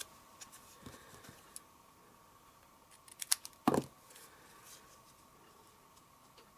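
Scissors cutting cardstock: a few faint clicks, then a quick run of sharp snips about three seconds in, the last and loudest just before the four-second mark.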